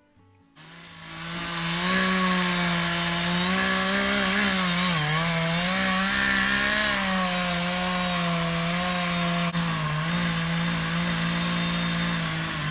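Two-stroke chainsaw running at high revs and cutting wood. It starts about half a second in, holds a steady high engine note, and its pitch sags briefly a couple of times as the chain bites under load.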